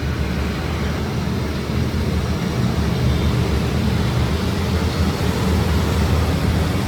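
Machinery running steadily: a low rumble with hiss above it, growing slightly louder about two seconds in.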